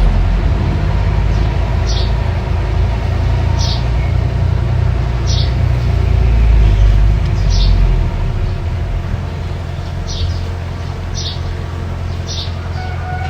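Mini bulldozer's diesel engine running with a steady low rumble that eases slightly about two-thirds of the way through. Short high chirps repeat about every second and a half over it.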